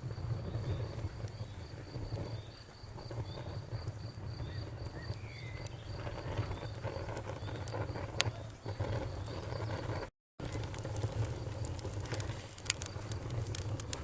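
Campfire burning with a low steady rumble and scattered crackles and pops, which come more often in the last few seconds, while crickets chirp in a steady pulsing rhythm. The audio cuts out completely for a split second about ten seconds in.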